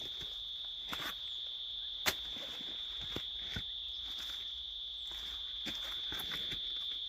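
Insects singing a continuous, steady, high-pitched drone, with a few faint clicks and snaps scattered through it and one sharper click about two seconds in.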